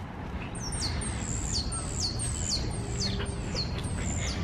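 A small songbird calling: a run of high, sharp notes, each sliding down in pitch, about two a second, over a low steady rumble of street noise.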